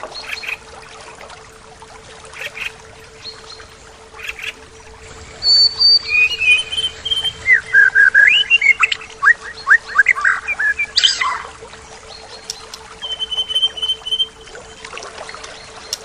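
A songbird singing a loud, varied phrase of clear whistles and quick sliding notes, ending in a fast series of chips. A shorter steady trill comes a couple of seconds later. Beneath it runs a steady rush of flowing river water.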